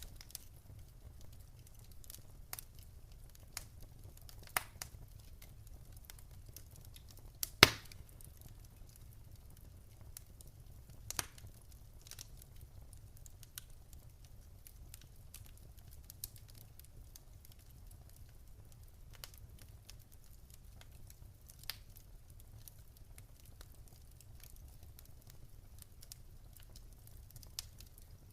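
Wood fire crackling in a fireplace: scattered sharp pops and snaps over a steady low rumble, with one much louder pop about a third of the way in.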